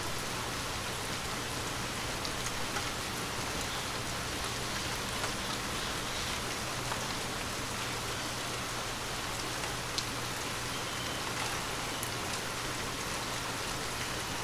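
Steady rain falling, an even hiss with scattered light ticks of drops, over a faint steady low hum.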